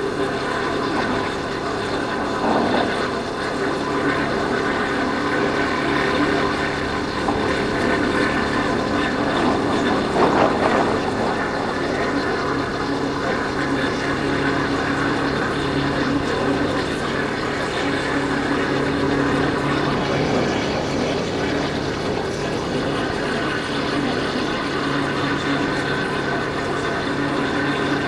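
Yamaha Factor 150 motorcycle's single-cylinder four-stroke engine running steadily while riding, with wind rushing over the microphone and a brief louder rush about ten seconds in.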